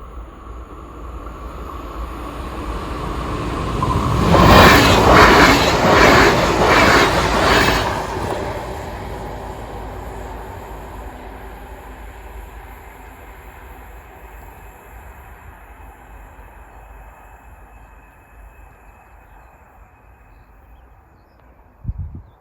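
A train approaching, passing close by with its wheels clattering rhythmically over the rails, then fading away into the distance. A brief knock sounds near the end.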